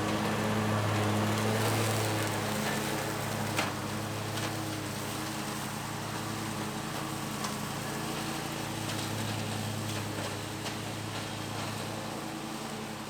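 Bad Boy Maverick zero-turn mower's engine and spinning blades running steadily under load while cutting through brush, with a few sharp ticks of debris striking the deck.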